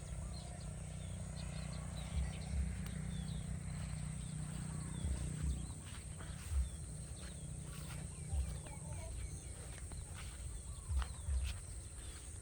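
Small birds chirping in short, scattered calls over a steady high insect drone, with a low rumble and a few soft thumps underneath.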